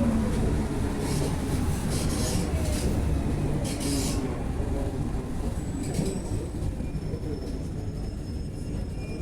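Inside an Alstom NS-16 metro car as the train slows to a stop in a station. The low rumble of the running gear fades, the motor's whine slides down and dies away at the start, and there are short hisses a couple of times.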